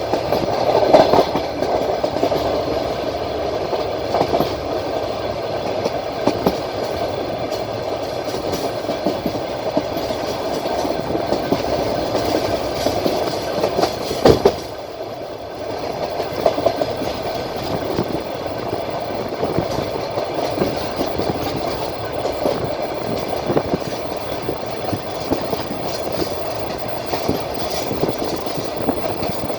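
Passenger train running along the track, heard from inside the carriage: a steady rumble of wheels on rail with irregular clicks of the wheels over rail joints. One sharp, loud knock comes about fourteen seconds in, after which the noise briefly drops.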